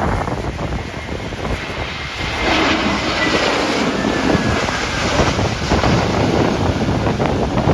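Airbus A321neo jet engines passing low overhead, a roar that swells about two seconds in, with a thin high whine that drops slightly in pitch as the aircraft goes by. Strong gusty wind buffets the microphone throughout.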